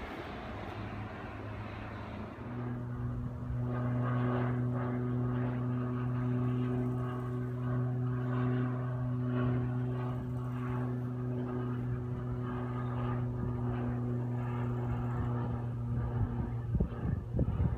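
Cessna 208 Caravan's turboprop and propeller running with a steady drone during a low approach, the hum coming in about two and a half seconds in and holding level. Near the end, gusts of wind buffet the microphone.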